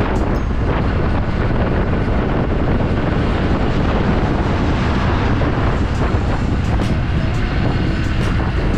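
Motorcycle riding along, its engine running steadily under a constant rush of wind and road noise on the microphone.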